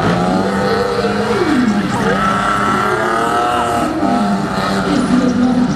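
Stunt car engines revving, the pitch repeatedly climbing and falling back over a steady held engine note.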